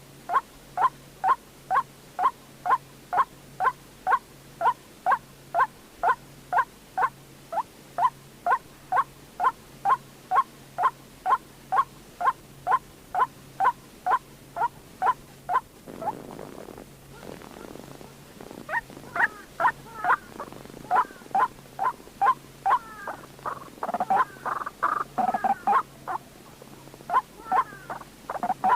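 White-breasted waterhen calling: a short, harsh note repeated evenly about two and a half times a second. Partway through the calls break into a rougher stretch, then resume more varied and overlapping.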